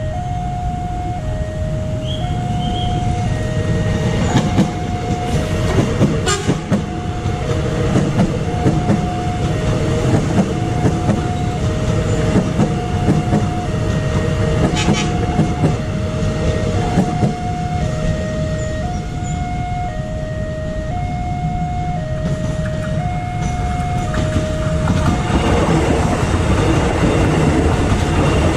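Level-crossing warning bell sounding a two-tone high-low signal, about one cycle a second, over the rumble and wheel clatter of an electric multiple-unit train running past, with a couple of sharp clanks. The bell stops near the end, and the train's wheel noise gets louder as the cars pass close by.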